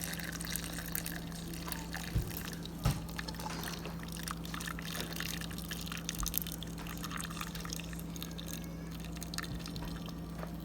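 Hot vinegar pickling brine being poured into a jar packed with green bird's eye chilies: a continuous trickling pour with drips. Two short knocks come at about two and three seconds in.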